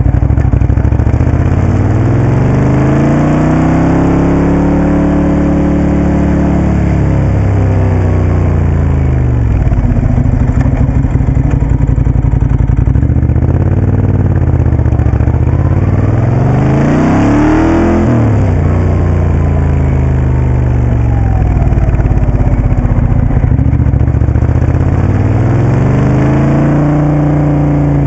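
Moto Guzzi Café Sport motorcycle engine under way, its pitch repeatedly rising as it accelerates and falling as it backs off, with the highest revs about two-thirds of the way in.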